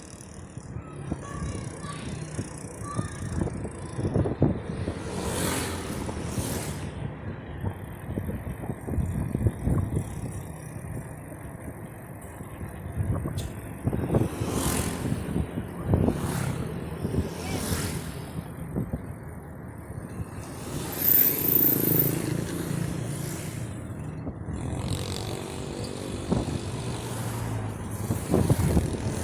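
Riding noise from a bicycle on a rough road: wind buffeting the microphone in repeated gusts over a steady rumble of tyres and road, with a brief high squeak about two-thirds of the way through.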